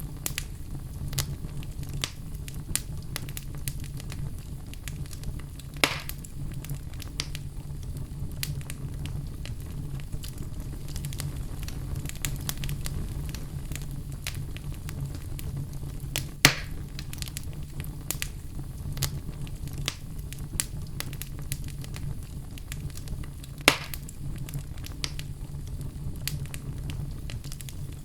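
Fireplace fire burning with frequent small crackles over a steady low background, and three louder sharp pops spread through.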